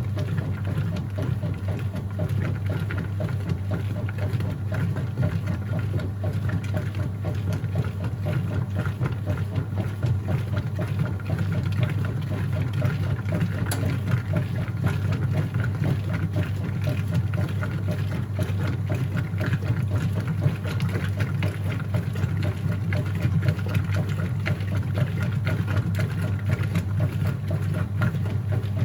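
Whirlpool top-load washing machine running mid-cycle: a steady low motor hum with a faint high tone above it.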